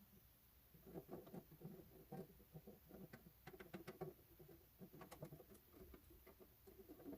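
Faint, irregular snipping and crinkling of scissors cutting through a thin metal tin can as an opening is cut out of it.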